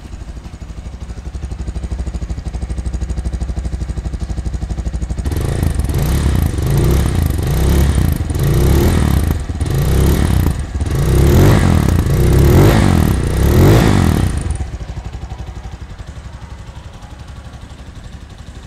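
Victory Bomber 250 motorcycle engine idling through its exhaust. About five seconds in, the throttle is blipped several times in quick succession, each rev rising and falling. It then settles back to a steady idle for the last few seconds.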